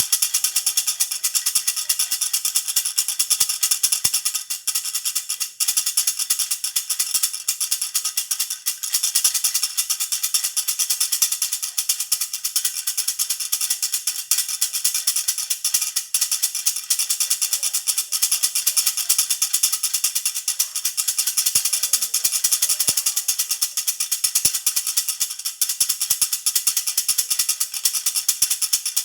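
A jhunjhuna baby rattle shaken continuously: a steady, dense, bright jingling with no pauses.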